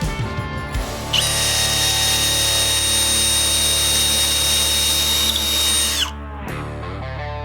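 Milwaukee M18 FUEL brushless hammer drill/driver starts about a second in, runs steadily at speed with a high motor whine for about five seconds, and stops near the end, over background music.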